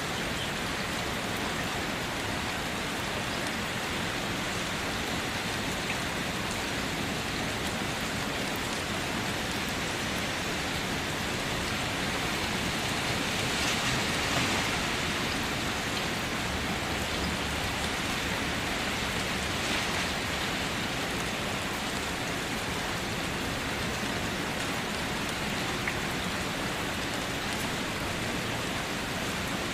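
Steady rain falling, an even hiss with scattered drops pattering on surfaces, swelling slightly in intensity about halfway through.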